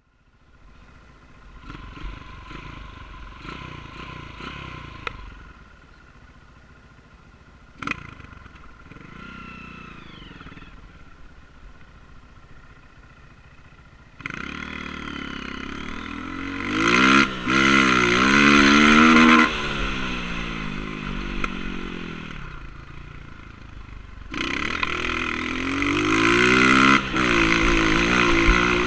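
Honda CRF230 dirt bike's single-cylinder four-stroke engine running, fairly quiet at first with a sharp click about eight seconds in. About halfway through it gets much louder and revs hard, its pitch rising and falling, with a brief break in the sound twice, then it eases off and revs up again near the end.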